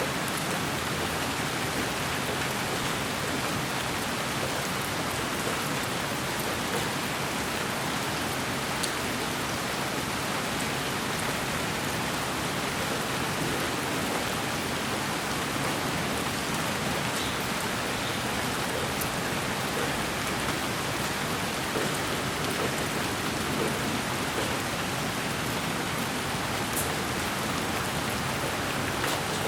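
Steady rain sound played as white noise for sleep: an even hiss with faint scattered ticks like drops.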